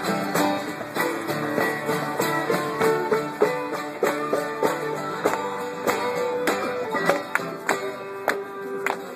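Acoustic string band playing a tune, with plucked strings picking quick notes over a few held notes.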